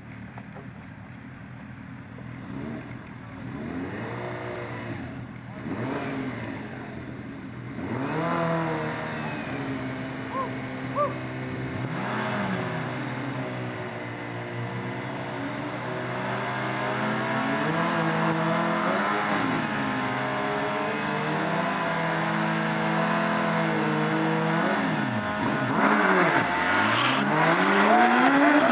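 Suzuki Hayabusa and GSX-R1000 inline-four sportbike engines idling at the start line and blipped again and again in short revs. Near the end both launch at full throttle, the engine note climbing and getting louder as they pull away.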